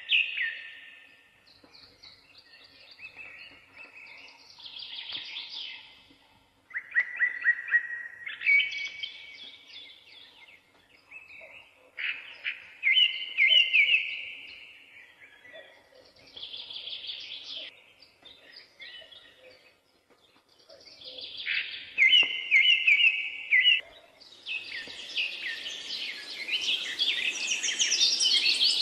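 Birds chirping and singing in short trilled phrases every few seconds, thickening into a dense chorus of chirps in the last few seconds.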